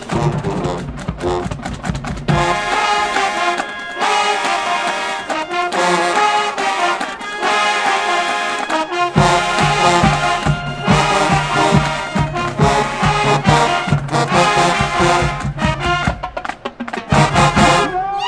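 Marching band brass section playing loud sustained chords with drumline hits, the low drums dropping out for several seconds and coming back in before the music cuts off near the end.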